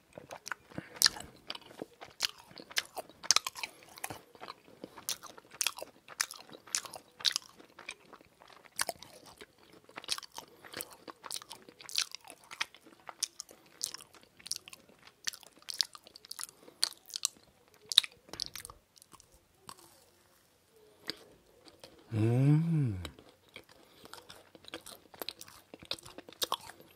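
Close-miked chewing and crisp bites of a crème brûlée cream puff, its caramelized sugar top crackling between the teeth. About three-quarters of the way through comes one short hum of the voice, rising and then falling in pitch.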